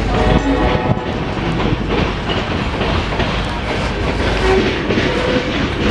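Freight train's covered hopper cars rolling past at close range: a steady, loud rumble of steel wheels on the rails.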